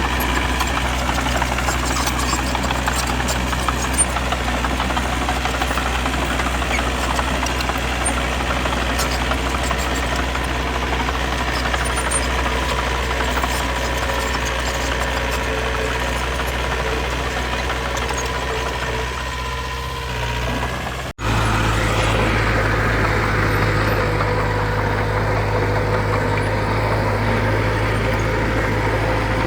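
Diesel engine of heavy earthmoving equipment running steadily. About two-thirds of the way through, the sound cuts off abruptly and resumes at once with a somewhat different, stronger low hum.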